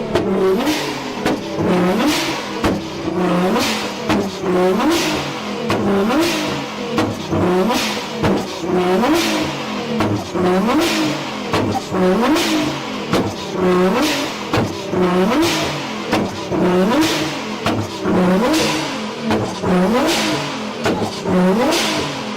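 A car engine revved over and over, about once a second, the pitch rising and falling each time, with sharp exhaust pops.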